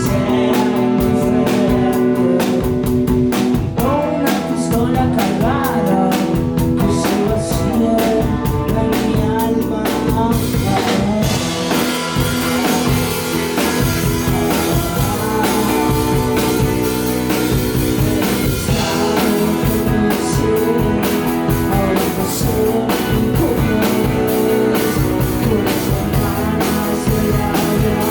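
Live rock band performing, with electric guitars, bass, drum kit and sung vocals.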